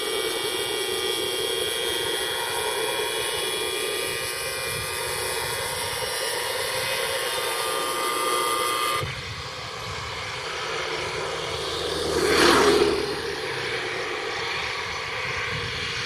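Airbus A320neo jet engines on landing approach, a steady whine made of several high tones over a rushing noise. About nine seconds in, the sound changes abruptly to a lower, duller rush. A brief loud whoosh swells and fades a few seconds later.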